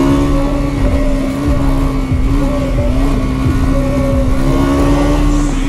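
Bajaj Pulsar NS200's single-cylinder engine running steadily at speed, its pitch holding nearly level, over a haze of wind and road noise.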